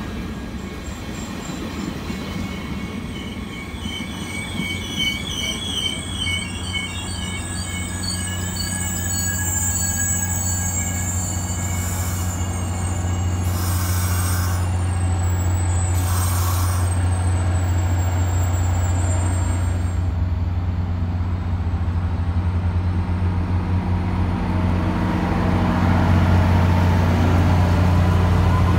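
Caltrain gallery cars rolling past with rail noise and some wheel squeal, over the low, steady drone of the EMD F40PH-2CAT diesel locomotive, a 16-cylinder two-stroke, pushing at the rear. The drone grows louder as the locomotive draws near toward the end.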